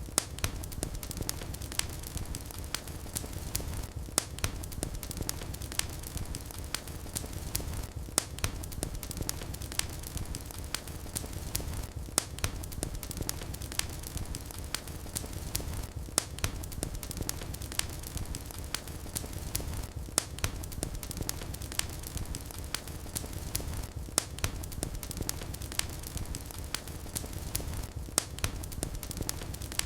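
Fire burning in a fireplace, crackling: frequent sharp pops and snaps over a steady low rumble of the flames.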